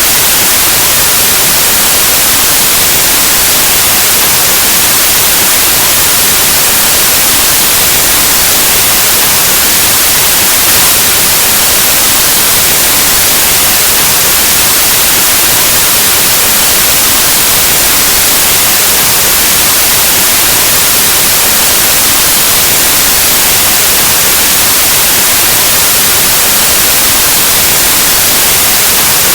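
Loud, steady white noise: an even static hiss across the whole range, like an untuned analog TV or radio, unchanging throughout.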